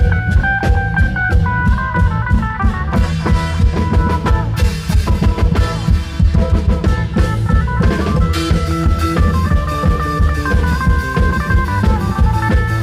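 Isan klong yao ensemble playing: long drums and drum kit beating a steady dance rhythm under a stepping melody.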